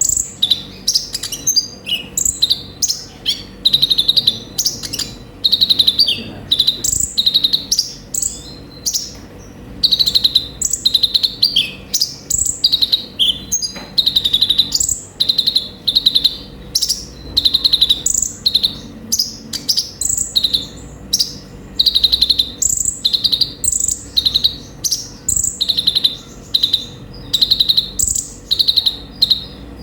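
Olive-backed sunbird ('kolibri ninja') singing a fast, continuous run of short high chirps and trills, several a second without a break, as a lively full song. A faint steady hum runs underneath.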